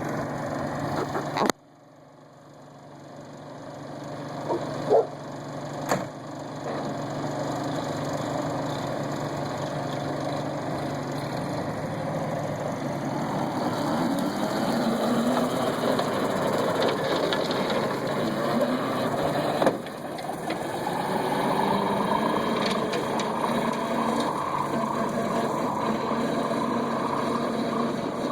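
1948 Willys pickup's four-cylinder flathead engine running steadily while mowing grass. The sound drops away abruptly about a second and a half in and builds back up over the next few seconds, with two sharp clicks around five and six seconds in.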